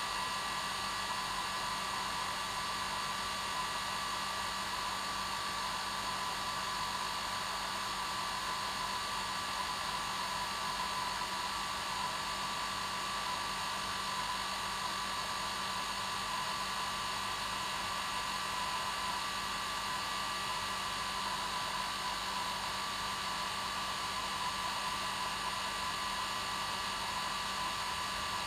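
Hair dryer running steadily, a constant whooshing rush with a fixed hum, used as white noise to lull a baby to sleep.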